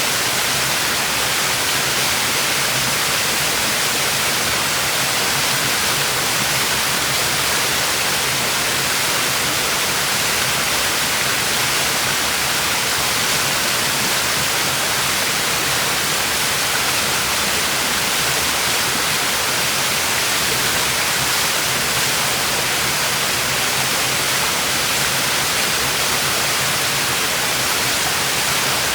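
Waterfall pouring steadily, a dense even hiss of falling and splashing water, strongest in the high end.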